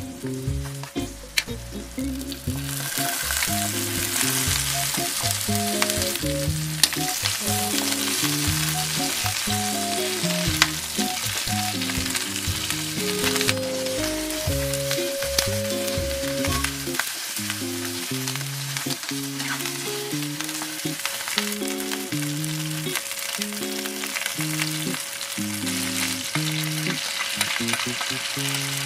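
Chicken feet sizzling in hot oil in a wok while a metal spatula stirs them, with scattered clicks and scrapes against the pan. The sizzle turns loud about two and a half seconds in. Light background music plays throughout.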